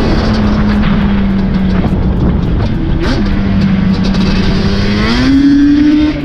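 A motor vehicle engine running at a steady speed under heavy wind and road rumble. About five seconds in, its pitch rises as it speeds up, and it dips briefly near the end.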